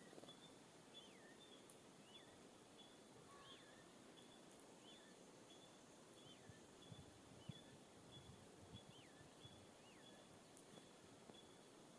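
Faint songbird calls outdoors: a single note sliding downward, repeated about once a second, with short high chips between. A few soft low knocks come about seven seconds in.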